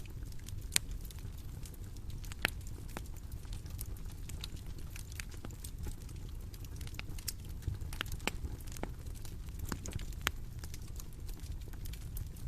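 Bonfire burning: a steady low rumble with irregular sharp pops and snaps of burning wood.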